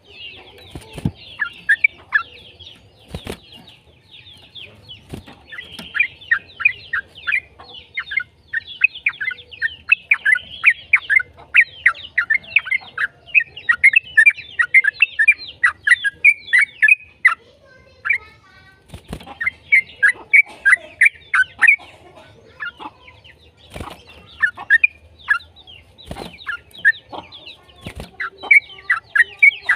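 Yellow-vented bulbul (trucukan) singing in long, fast chattering runs of bubbly notes, broken by a short pause a little past halfway, with a few sharp knocks in between.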